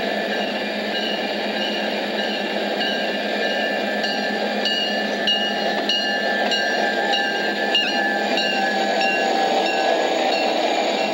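Diesel-hauled freight train approaching and passing close by, with the steady rumble of the locomotive and cars. From about four seconds in, the wheels click over rail joints in a regular beat, a little under twice a second.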